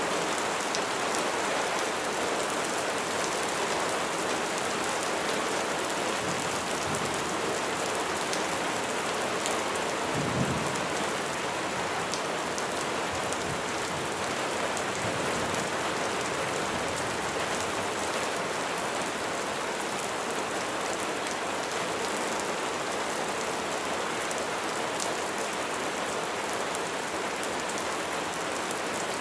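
Heavy rain falling steadily, with a brief low rumble of thunder about ten seconds in.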